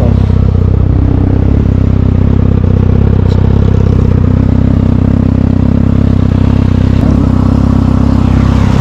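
Motorcycle engine running at a steady speed while riding, a constant low drone that holds its pitch.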